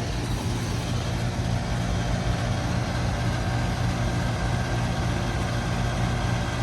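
Outdoor central air-conditioning condenser running: a steady electrical hum from the compressor under the rush of the condenser fan.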